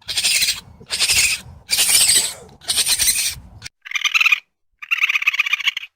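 Raccoon calls: four harsh, rasping screeches of about half a second each. About four seconds in, these give way to two higher, pulsed trilling calls.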